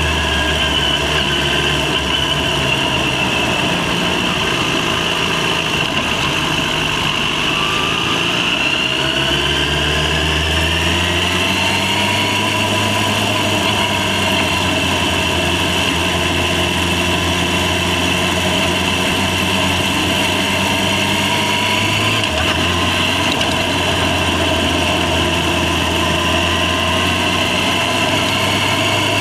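Yamaha FZ6's inline-four engine running as the motorcycle rides. Its pitch rises about a third of the way in, and the low note changes abruptly about three-quarters through.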